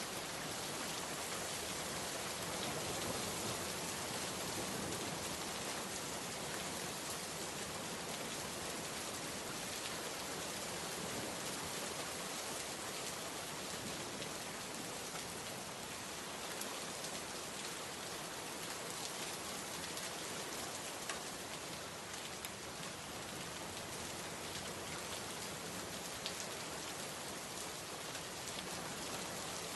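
Steady heavy rain, a dense even hiss with scattered individual drops ticking on a surface.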